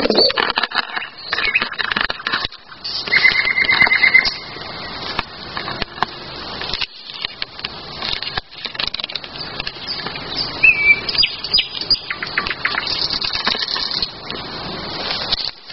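Wild birds singing: a fast even trill about three seconds in, a short chirp near the eleven-second mark and scattered high notes. Frequent sharp crackles and clicks run underneath.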